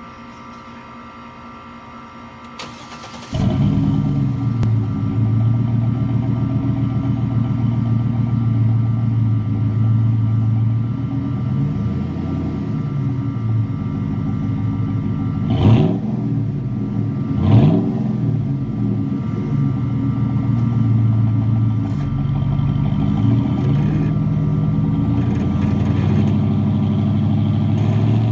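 2007 GMC Sierra's 6.0 L Vortec Max V8 breathing through a single-in, dual-out Flowmaster Super 10 exhaust: the starter cranks briefly and the engine catches about three seconds in, then idles loudly and steadily. Two quick throttle blips rise and fall just past the middle, and then it settles back to idle.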